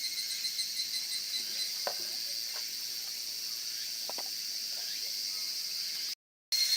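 A steady chorus of insects chirring, with a few faint light knocks in the middle; the sound cuts out for a moment near the end.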